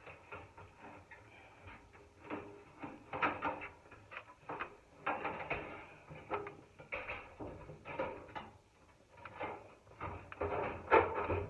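Irregular clicks, knocks and scrapes of metal parts being handled as a dryer's heating element assembly is fitted back into the cabinet, with a cluster of louder knocks near the end.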